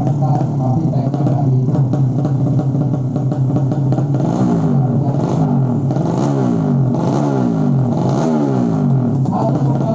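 Underbone drag-race motorcycle engines, 200 cc, revving hard, with a run of repeated falling pitch sweeps from about halfway through.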